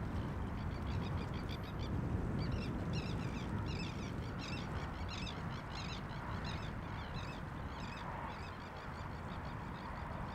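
Birds calling in a rapid run of short, repeated calls, several a second, over a steady low rumble.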